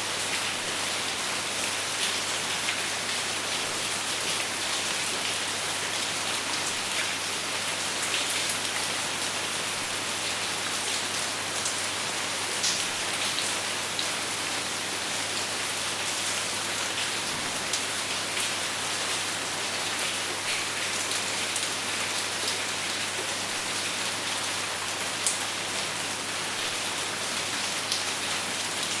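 Steady rain falling, a constant hiss dotted with the small ticks of individual drops hitting a surface, without thunder.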